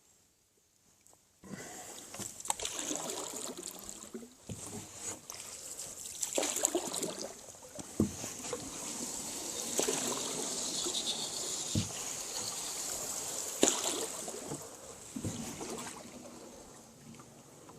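Small boat being worked through water weeds: water splashing and trickling with rustling and scraping, and a few sharp knocks. It starts about a second and a half in.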